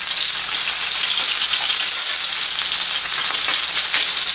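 Oil sizzling steadily around chicken galantines shallow-frying skin-side down in a non-stick skillet, with a few small pops.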